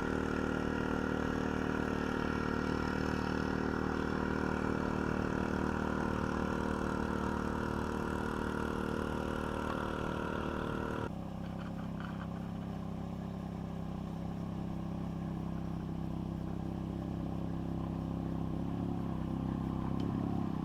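Boat's outboard motor running steadily, its tone and level changing abruptly about eleven seconds in.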